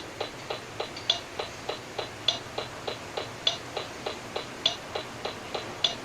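Steady, even ticking, about three and a half ticks a second, with a louder, brighter click on every fourth tick, like a metronome beat.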